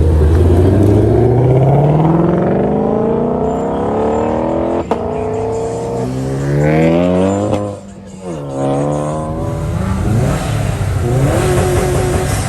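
A car engine accelerating hard, its pitch climbing steadily through the revs, with a sharp click about five seconds in before it climbs again. Near eight seconds the revs drop suddenly as the throttle lifts, then the engine pulls up again.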